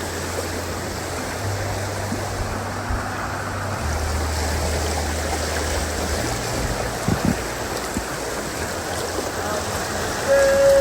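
River water rushing steadily, with a low hum underneath that shifts pitch in a few steps.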